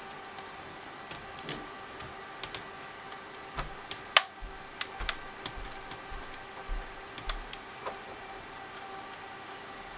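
Scattered plastic clicks and taps from a TI-84 Plus calculator's case being handled and prised open by hand, with one louder click a little after four seconds in. A steady faint hum lies underneath.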